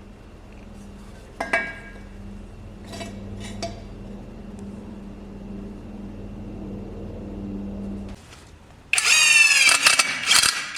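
A steady mechanical hum with a few sharp metal clinks cuts off abruptly near the end. A loud, high-pitched burst of quickly sweeping tones follows for about a second and a half.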